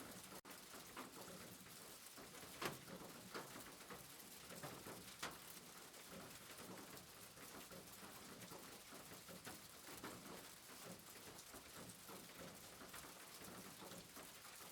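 Steady, soft rain patter with many small drops and a few louder drips, the loudest about two and a half seconds in.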